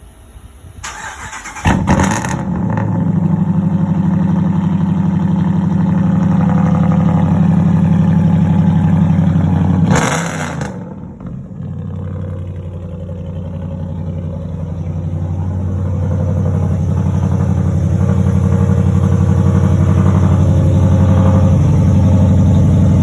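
A 2020 Ram's 5.7 Hemi V8 with straight-piped true dual exhaust cranks on the starter, catches about two seconds in and settles into a loud, deep idle. About ten seconds in a brief rushing noise comes and the engine sound drops, then builds back up to a steady loud drone.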